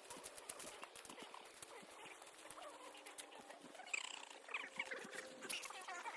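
Footsteps crunching along a dirt and leaf woodland trail at walking pace. High wavering calls join in about four seconds in.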